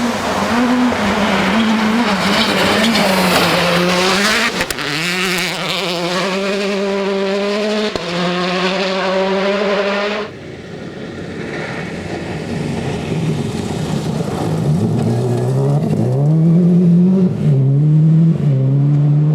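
Rally car engines driven hard, revving up through the gears with a pitch step at each shift, over tyre and stone noise. About ten seconds in the sound cuts off abruptly, and another car is heard accelerating and changing gear.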